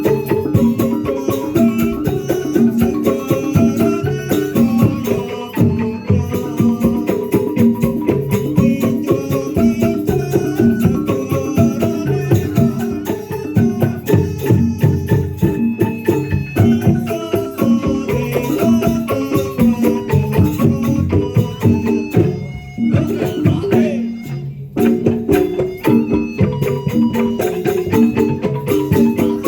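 Traditional folk percussion ensemble music: drums and rattling percussion keep a dense rhythm under a repeating tuned melody, with two brief drops in loudness near the end.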